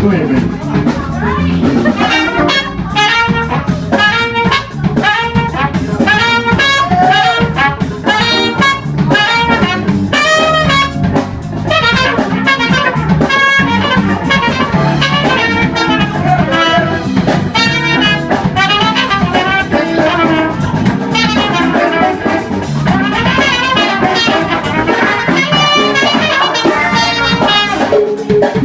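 Live blues band jamming, with a horn taking a solo over the drums and rhythm section.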